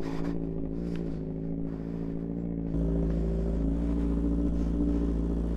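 Motorcycle engine idling steadily, with an abrupt step up in loudness about three seconds in.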